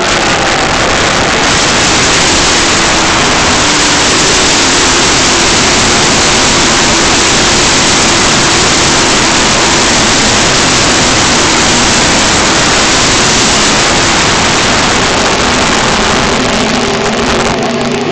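A pack of NASCAR Nationwide Series stock cars with V8 engines racing past at full throttle, a loud continuous roar that drowns out everything else for the whole stretch.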